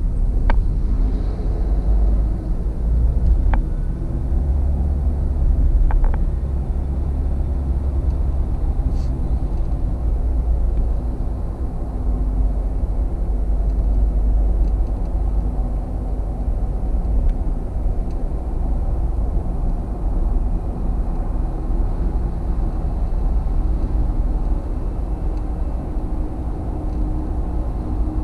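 Car interior noise at highway speed: a steady low road and tyre rumble with engine hum underneath, and a few faint clicks in the first seconds.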